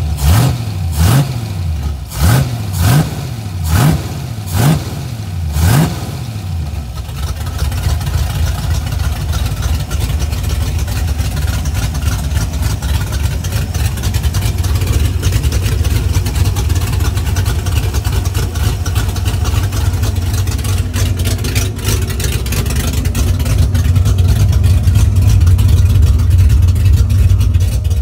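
Carbureted Ford 5.0 V8 with a B303 cam and long-tube headers, running just after being fired up following an intake swap. The throttle is blipped about six quick times in the first six seconds, then the engine settles to a steady idle that grows a little louder near the end.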